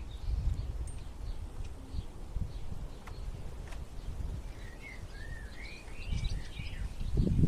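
Songbirds singing outdoors, with a few short warbling phrases about six seconds in, over a low rumble that grows louder near the end.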